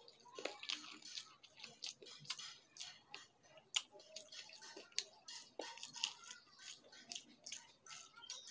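A person chewing a mouthful of chicken masala and rice, close to the microphone: irregular mouth clicks and smacks, a few a second, with one sharper click a little under four seconds in.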